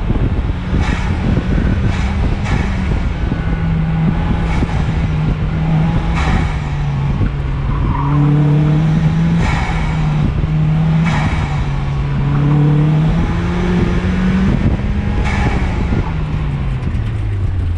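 Car engine running hard through an autocross run, its pitch stepping up and down with the throttle over a steady rush of road and wind noise, with a few short bursts of noise. Near the end the engine note falls as the car slows to finish the run.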